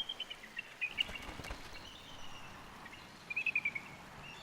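Bald eagle calling from the nest: short runs of quick, high chittering notes, a brief run at the start and a longer, slightly falling run about three seconds in, over faint outdoor background noise.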